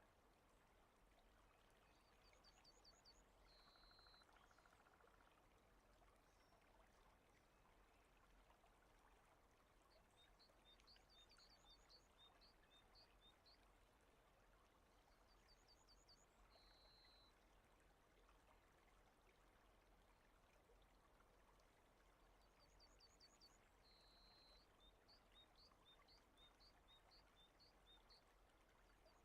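Very faint rain ambience, a steady soft hiss, with a bird calling now and then: quick runs of high short notes, some ending in a brief held whistle, repeating about every six or seven seconds.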